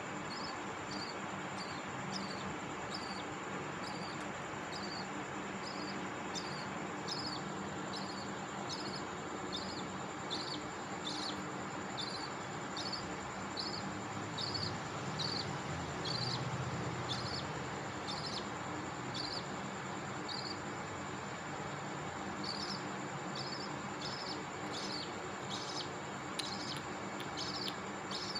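Budgerigars chirping: a long run of short, high chirps, about one and a half a second, over a steady background hiss.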